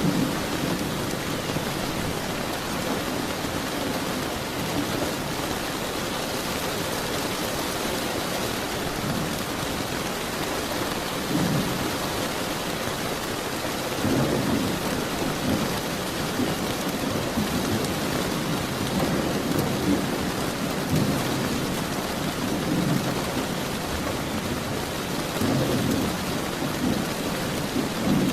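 Steady heavy rain with thunder rumbling several times, swelling around a third of the way in, in the middle and again near the end.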